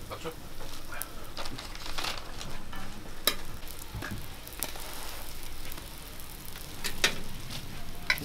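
Sweet pumpkin hotteok (Korean stuffed pancakes) sizzling in oil on a flat steel griddle, a steady frying hiss. A few sharp clicks stand out as the steel presser and tongs knock against the griddle, the loudest about a second before the end.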